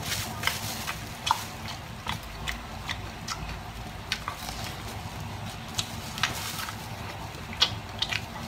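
Close-up chewing and biting of roast pork belly: irregular smacking and clicking mouth sounds, several a second.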